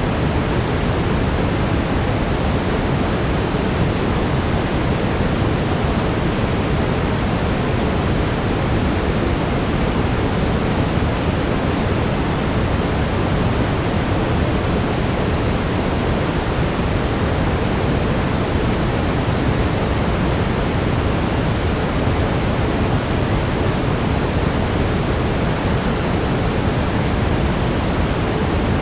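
Steady brown noise: an even, deep hiss, strongest in the low range.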